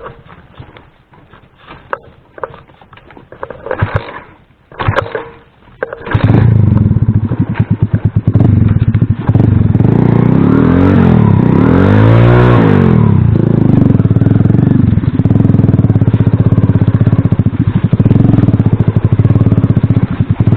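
A few scattered clicks and knocks, then about six seconds in an Alpha moped's single-cylinder engine comes in suddenly and runs loud and close, revving up and down a few times in the middle.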